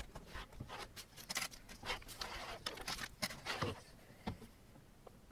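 Hands handling 3D printer kit parts and hardware: a series of clicks, knocks and short scraping, rustling sounds, ending with a single click a little after four seconds.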